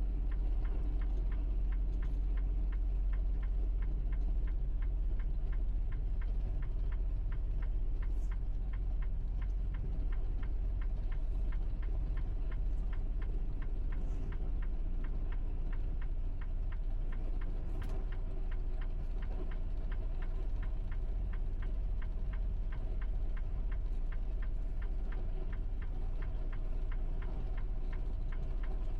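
Tractor-trailer's diesel engine running steadily while driving, heard from inside the cab as a constant low drone, with a fast, even ticking of several ticks a second on top.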